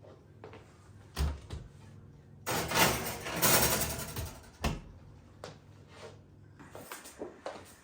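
Household handling sounds: a knock about a second in, a rushing, rustling noise lasting nearly two seconds, then a sharp knock, with light clicks near the end.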